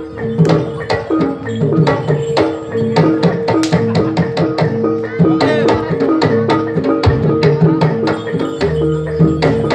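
Live jaranan (kuda lumping) dance music: a Javanese percussion ensemble of drums and struck percussion playing a quick, busy rhythm over a steady held note.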